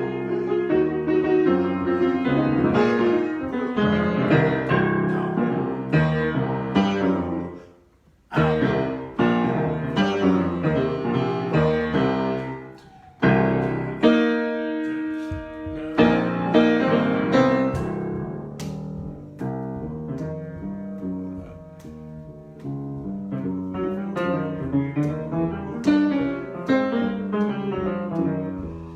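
Piano playing an improvisation: busy runs of notes and chords, a brief pause about eight seconds in, and a chord held for about a second and a half near the middle.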